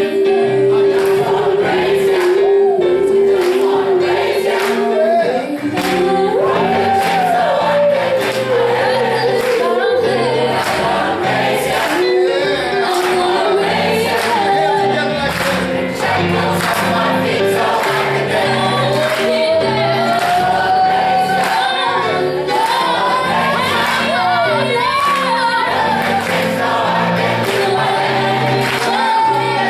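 A choir singing a song in parts, over accompaniment with a steady beat.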